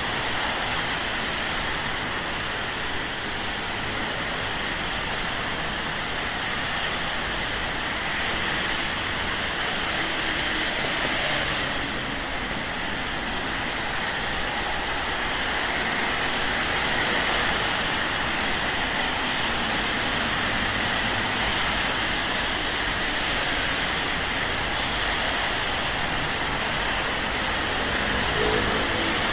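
Steady rain mixed with city road traffic on wet streets.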